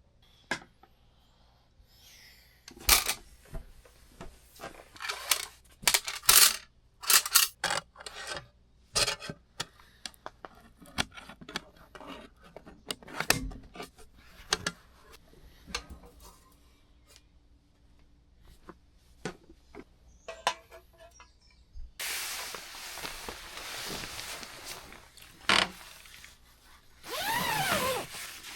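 Metal camping dishes and utensils clinking and scraping in a run of sharp knocks, then a steady hiss for about five seconds near the end.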